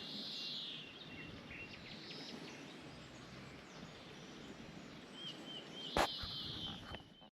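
Birds calling repeatedly over a faint outdoor hiss, with a quick run of short chirps near the end and a single sharp click about six seconds in.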